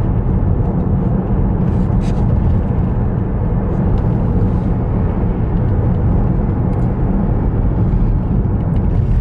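Road and tyre noise inside a moving Tesla electric car: a steady low rumble with no engine sound.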